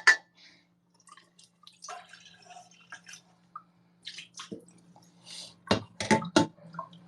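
Washing dishes at a sink: scattered drips and splashes of water with light clinks, then a few louder knocks of dishes about six seconds in. A faint steady hum runs underneath.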